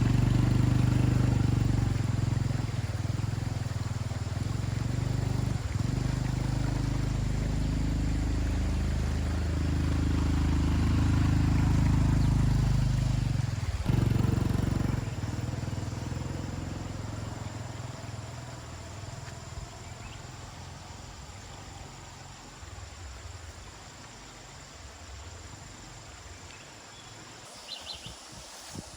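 A vehicle engine running steadily, then fading away after about fifteen seconds, leaving quiet outdoor background.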